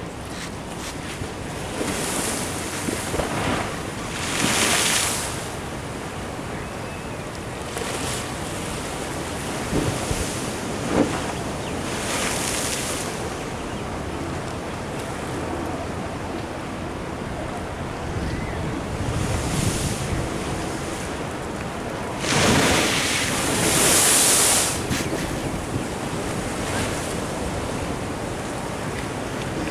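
Ocean waves breaking and washing against a sea wall, surging every few seconds, with the longest and loudest surge past the middle. Wind buffets the microphone throughout, and there is one short knock at about 11 seconds.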